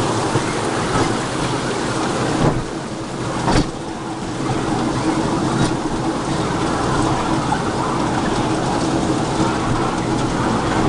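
Small open-car park train running along its track: a steady rumble and rush of wheels and running gear, with two sharp knocks about two and a half and three and a half seconds in.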